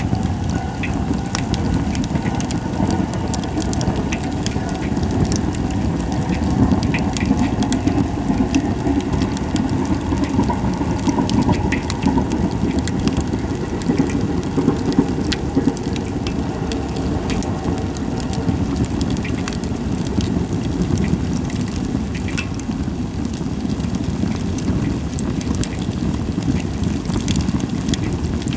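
Japanese white pine (goyomatsu) firewood burning in an open campfire: a steady low rush of flame with frequent sharp crackles and pops, and little hissing.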